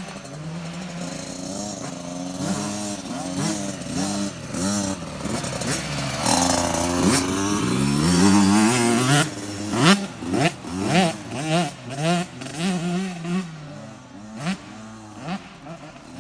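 Motocross bike engines revving up and down through the gears, loudest about midway as a bike comes close, then a run of short, sharp throttle blips in the last few seconds.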